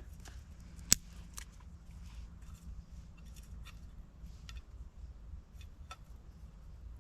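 Scattered light clicks and ticks from handling small fire-lighting gear, with one sharp click about a second in, over a low steady background rumble.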